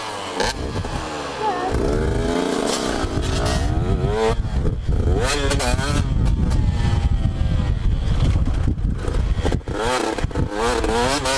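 Dirt bike engine revving, its pitch climbing and dropping again and again as the throttle opens and closes through the gears.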